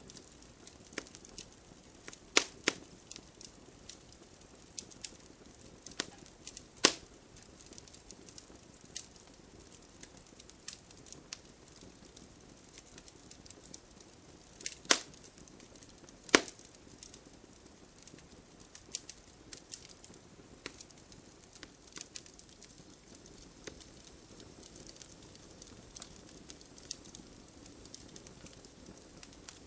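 Wood fire crackling: irregular sharp snaps and pops over a faint steady hiss, with a handful of much louder pops.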